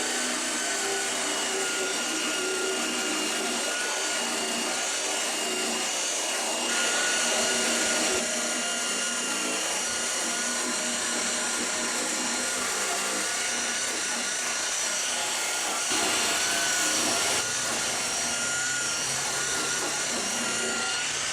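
Power buffer running steadily as it polishes overspray off a plastic vent trim, a high motor whine that gets louder twice for a second or so, as the pad presses harder.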